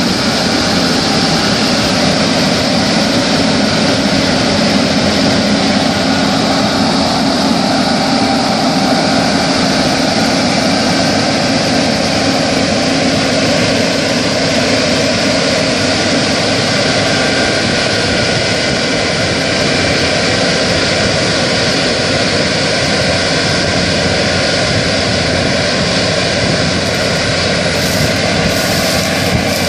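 New Holland CR8080 combine harvester running steadily while harvesting barley: a continuous machine hum with a steady engine drone.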